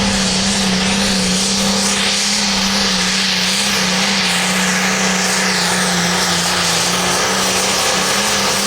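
Hot Farm class pulling tractor's turbocharged diesel engine running flat out at a steady pitch as it drags the weight sled down the track.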